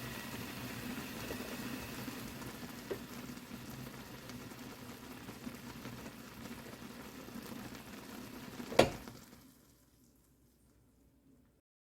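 A pot of ramen with oysters boiling with a steady bubbling hiss. About nine seconds in comes one sharp click, and the bubbling then dies away to near silence within a second.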